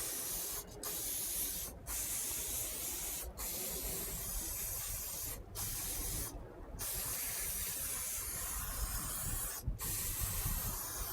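Würth HHS Clean aerosol grease remover spraying in a series of long hissing bursts with brief pauses between them, dissolving old grease on a car door hinge and check strap.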